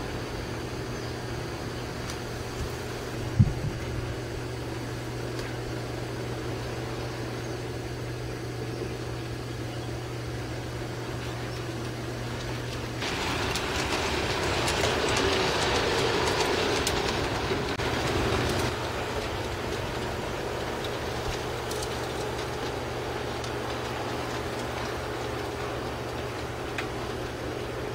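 G-scale model train running on garden track: a steady motor hum with wheels rolling on the rails, growing louder for about five seconds past the middle as it passes close. There is one sharp knock a few seconds in.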